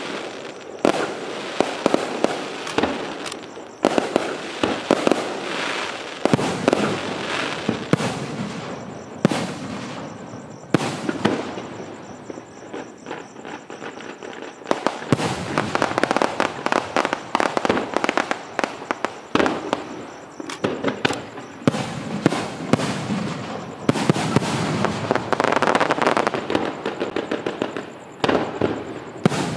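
Aerial firework shells bursting in rapid, overlapping volleys, with sharp bangs and crackling throughout and denser, louder barrages at several points.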